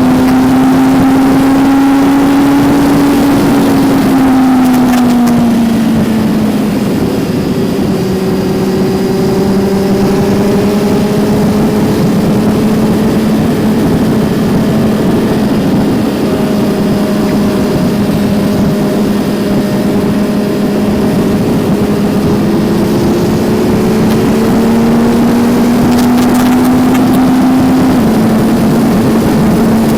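Kawasaki Z900's inline-four engine running under way, heard from onboard over a steady rush of wind. The engine note settles lower about six seconds in, holds steady, climbs again in the last third and drops suddenly near the end.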